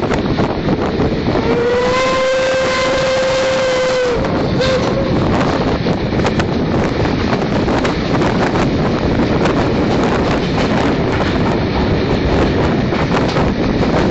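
Steam locomotive whistle blowing once for about three seconds: one steady tone that slides up slightly as it starts, followed by a brief short toot. Wind buffets the microphone and the moving train's noise runs underneath throughout.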